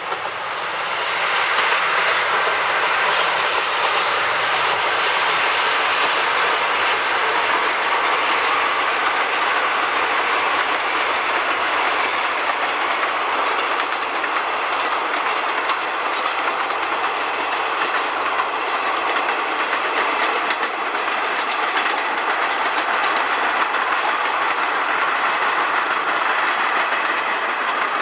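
Express train of 14-series passenger coaches running past, a steady, loud noise of steel wheels on the rails that builds about a second in.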